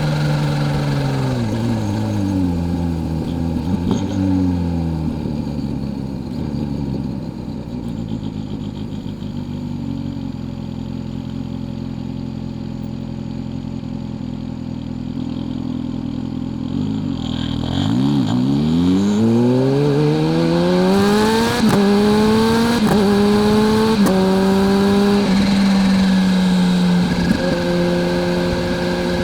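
Kawasaki Z H2's supercharged inline-four slowing, its pitch falling over the first several seconds and then running low for a while. From about two-thirds of the way in it accelerates through several gears, the pitch rising and dropping back at each upshift, then settles into a steady cruise near the end.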